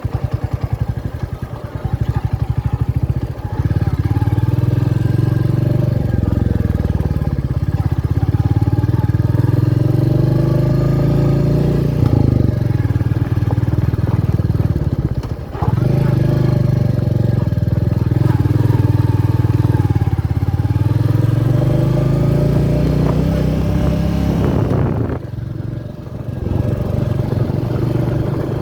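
Royal Enfield Meteor 350's single-cylinder engine accelerating through the gears. The pitch rises and drops back three times at the shifts, then falls away as the bike eases off near the end.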